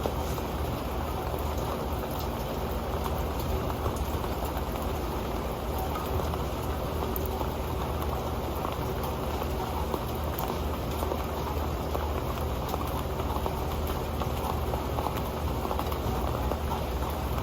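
Steady rain falling onto an old metal pan: an even wash of rain with many small ticks of drops striking the pan.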